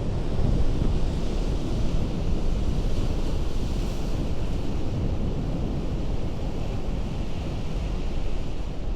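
Ocean surf breaking against a rocky shore: a steady wash of noise with a heavy low rumble and no single crash standing out.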